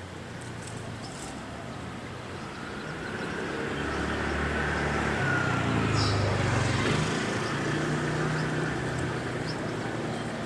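A motor vehicle passing by: engine and tyre noise swells to its loudest about six to seven seconds in, then fades.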